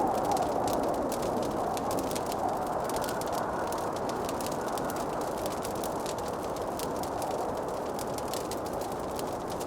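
Wood fire crackling in a fireplace: many small, irregular pops and snaps over a steady rushing hiss.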